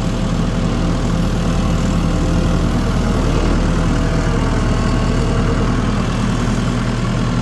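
Tractor engine running steadily under a low, even drone as the tractor moves toward a round bale.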